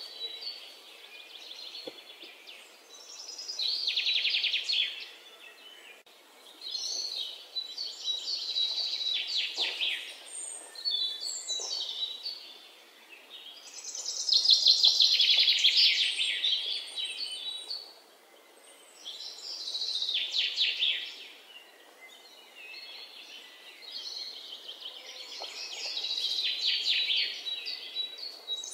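Songbird singing: rapid, high trilled phrases, each lasting one to a few seconds, repeating with short pauses between them.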